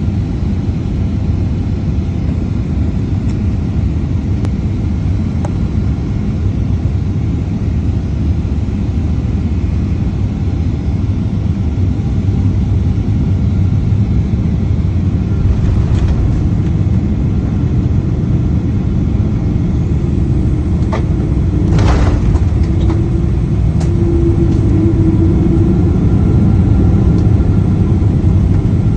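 Steady low rumble of a Boeing 777-200ER airliner heard from inside the cabin during its landing, growing a little louder toward the end, with a few faint clicks and a short hiss in the second half.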